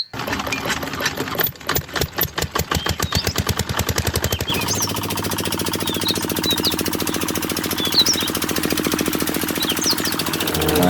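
Small diesel engine starting: slow, separate chugs that quicken over the first few seconds, then settle into a steady, fast running chug.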